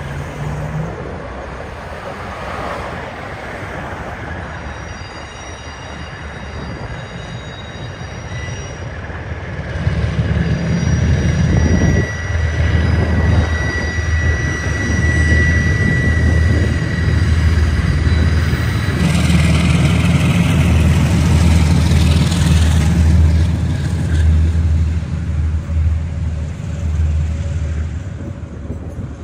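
Two KiwiRail diesel locomotives hauling a passenger train past, their engines giving a deep pulsing rumble that swells about a third of the way in. High steady wheel squeal rings out over it, strongest for several seconds in the middle.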